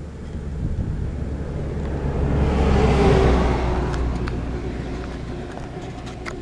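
A road vehicle passing by, its noise swelling to a peak about three seconds in and then fading away over a steady low rumble. A few faint sharp ticks follow near the end.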